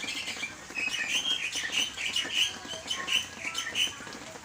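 Small birds chirping in quick, short, high calls, several a second, over a steady hiss; the chirping dies away near the end.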